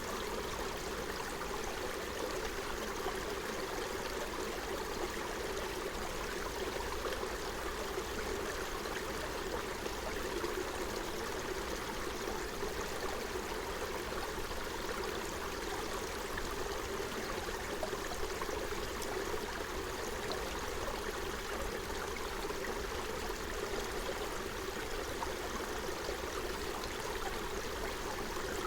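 Small forest stream flowing over stones, a steady rushing and gurgling of water.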